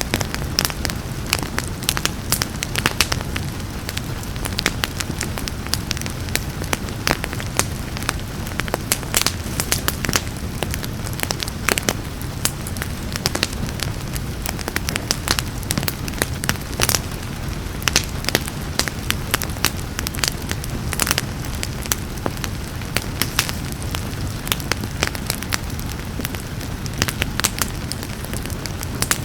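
Wood fire crackling with frequent sharp pops and snaps over a steady low rumble, mixed with the even hiss of rain.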